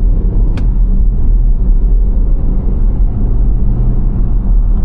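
Steady low rumble of a car driving at road speed, heard from inside the cabin, with a single short click about half a second in.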